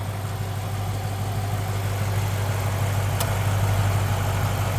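Dodge Challenger R/T's 5.7 L Hemi V8 idling with a steady low hum. A single sharp click sounds about three seconds in.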